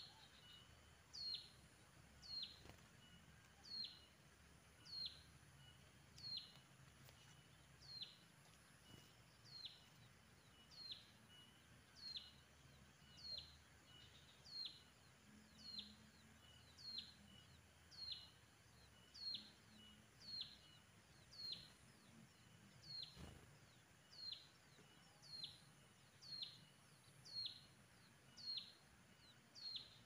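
A bird calling over and over in a steady rhythm, roughly once a second: each call is one short, high note that sweeps downward. The calls are faint, over a quiet outdoor background.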